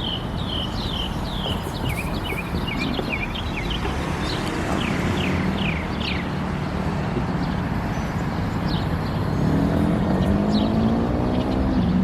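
Birds chirping in quick, repeated falling calls over a steady outdoor hiss. About nine seconds in, a dirt bike engine comes in, its pitch rising a little and then holding steady.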